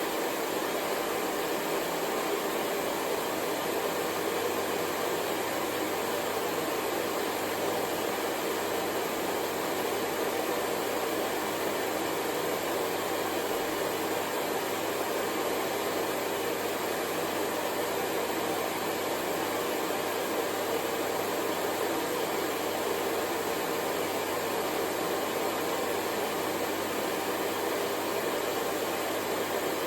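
Hair dryer running steadily: a constant rush of blown air with a faint low hum underneath, unchanging throughout.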